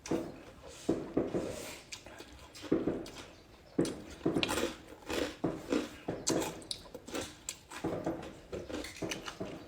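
Close-up chewing of crunchy food, an irregular run of crisp bites and chews every third to half second.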